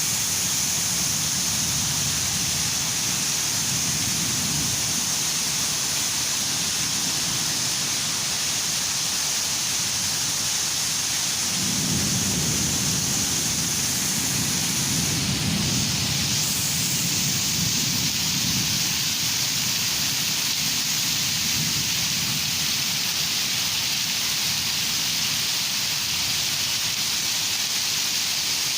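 Heavy rain falling steadily, with thunder rumbling underneath; a stronger rumble of thunder begins about twelve seconds in and dies away over roughly ten seconds.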